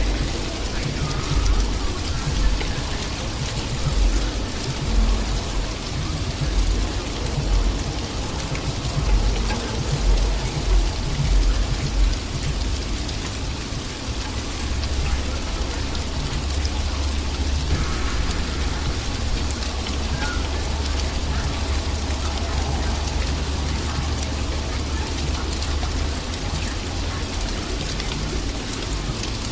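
Sleet pattering steadily on surfaces, with gusts of wind buffeting the microphone over the first half.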